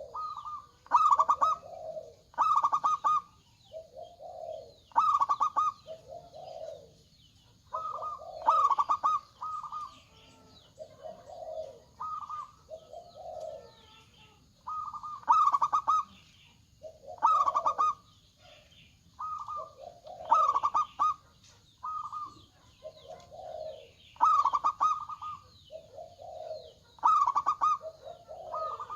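Zebra doves (perkutut) cooing over and over, a rapid stuttered run of notes followed by lower rounded coos, the phrases repeating about every two to three seconds.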